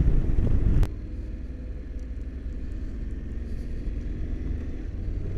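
Motorcycle engine running with wind noise on the microphone. About a second in, the sound drops abruptly to a quieter, steady engine hum.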